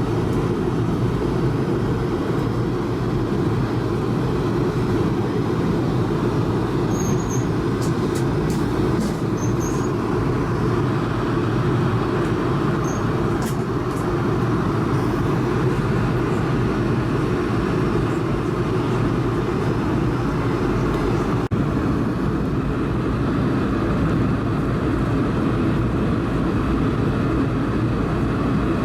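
Steady cabin noise of an Airbus A220-300 in descent: a constant deep rumble of airflow and engines, heard inside the passenger cabin.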